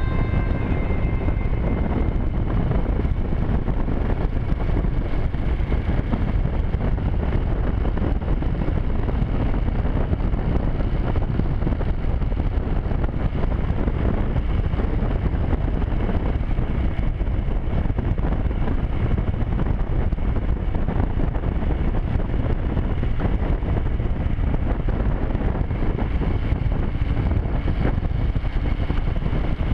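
A motorcycle on the move: steady wind noise on the microphone over the low drone of the ride, even throughout.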